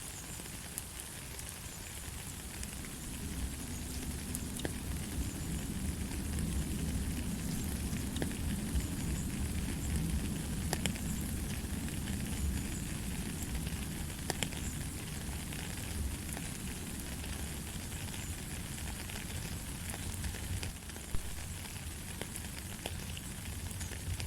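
Steady rain: a dense hiss with many scattered sharper taps of individual drops and a low rumble underneath, building a little in the first few seconds and then holding steady.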